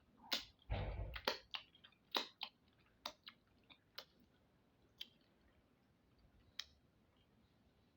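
A person eating: chewing with wet mouth clicks and lip smacks, a quick cluster about a second in, then single clicks spaced about a second apart.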